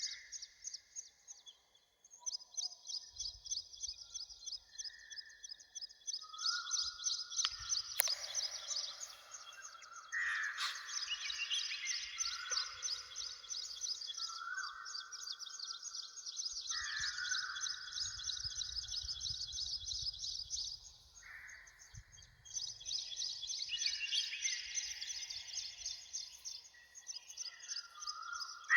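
Wild birds singing together: a fast, repeated high-pitched chirping that keeps going, over lower, longer notes that change pitch every second or two. Now and then a low rumble of breeze, and two sharp clicks near the middle.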